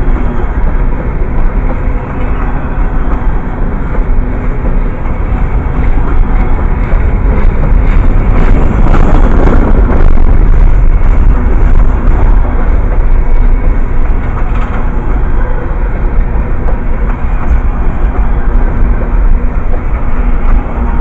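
A train passing close by: a steady loud rumble and rail noise that swells to its loudest about eight to eleven seconds in.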